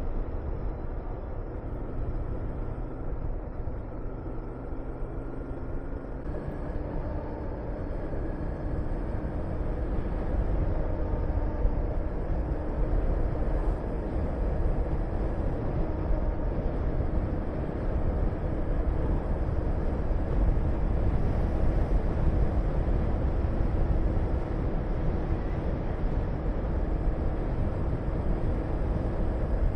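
Honda VTR250's V-twin engine running as the motorcycle rides along, mixed with heavy wind rush over the microphone. The engine note changes about six seconds in and the sound grows a little louder from about ten seconds on.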